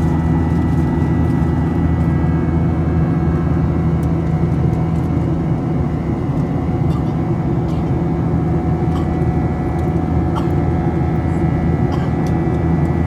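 Jet airliner cabin noise after takeoff: a steady drone of engines and rushing air, with a thin steady whine above it and a few faint clicks.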